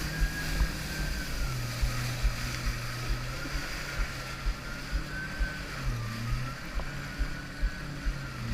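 Jet ski engine running steadily, with a higher whine above it that slowly rises and falls in pitch. Dull, irregular low thumps run throughout.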